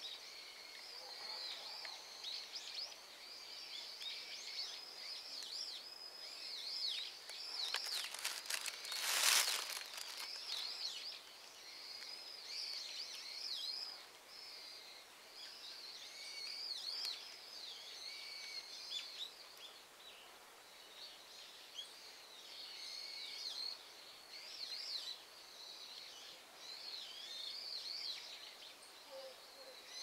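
Small birds chirping and singing without a break, many short calls overlapping. A brief, louder burst of noise comes about nine seconds in.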